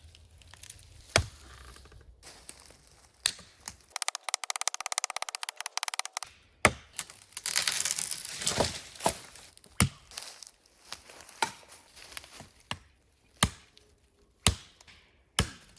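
Wood being chopped and broken: about a dozen sharp single chops and cracks, irregularly spaced, with a quick rattling patch a few seconds in and a crunching stretch of branches around the middle.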